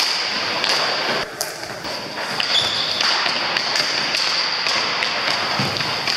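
Hockey game play: scattered sharp knocks and taps over a steady hiss of rink noise.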